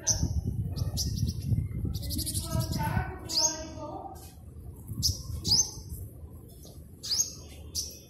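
A small bird calling with short, sharp, high chirps that each drop in pitch, about seven of them singly and in quick pairs. A low rumble runs under the first three seconds.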